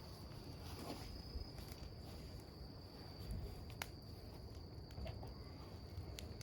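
Wood campfire burning, with a low rumble and scattered crackles, including a sharp pop a little before four seconds in. A steady, high insect trill carries on behind it.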